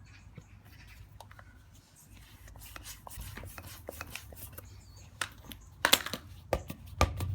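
Handling of a punctured football being rolled and squeezed about to spread the egg white injected inside it: scattered clicks, knocks and rubbing over a steady low hum, with the loudest knocks near the end.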